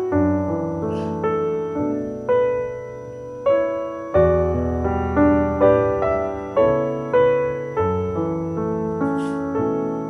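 Piano music: a melody over chords, each note struck and left to fade, changing about every half second to second.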